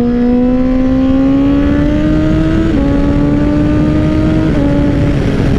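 2012 Honda CBR1000RR's inline-four engine pulling under steady throttle, its note rising slowly, then dropping at two upshifts, about two and three-quarter seconds and four and a half seconds in, under a steady rush of wind noise.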